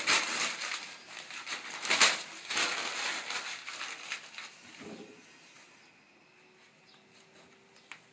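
Paper and kindling being handled in a fireplace: rustling and crunching noises, loudest about two seconds in, dying away after about five seconds.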